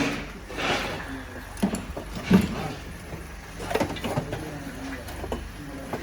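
Irregular metal knocks, clunks and scraping as an old exhaust section is worked loose and pulled free from under a car. The loudest clunk comes a little over two seconds in.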